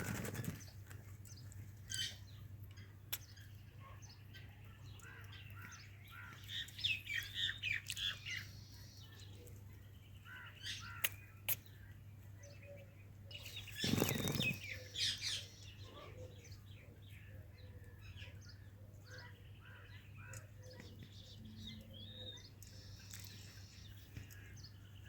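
A parrot chirping in short runs of high calls, with two loud bursts of wing flapping, one at the start and one about halfway through, over a steady low hum.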